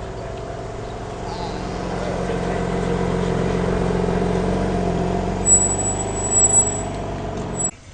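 A car engine running and growing louder as the car draws near, with a thin high-pitched squeal lasting about a second and a half near the end; the sound cuts off suddenly.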